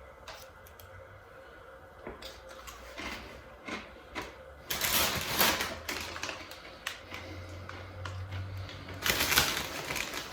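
Deli-style potato chips being bitten and chewed: crisp, crackly crunching in two loud stretches, about five seconds in and again about nine seconds in, with scattered small clicks before them.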